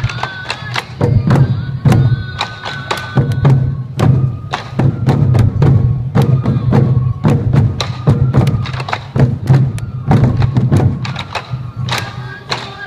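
Sansa odori taiko drums beaten together in a rapid, steady rhythm, with a bamboo flute playing a high melody in short phrases over them.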